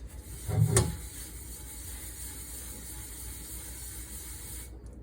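A single clunk of kitchenware knocking in the sink about a second in, then a steady low hiss.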